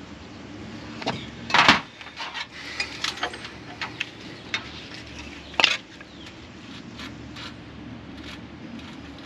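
Hand tools clinking and clanking against metal car parts, with scattered light clicks and two louder metallic clanks, about a second and a half in and again past five seconds, over a steady low hum.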